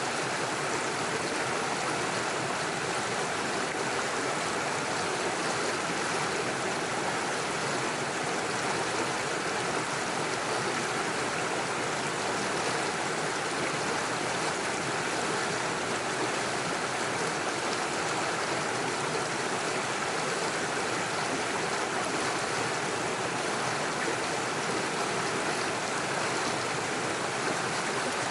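Small rocky stream rushing and splashing over stones and little waterfalls, a steady even sound.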